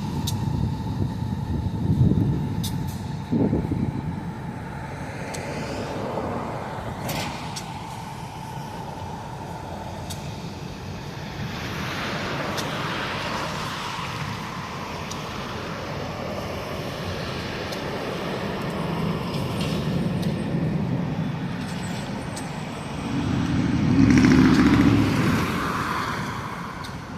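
Road traffic going past, with one louder vehicle passing by near the end.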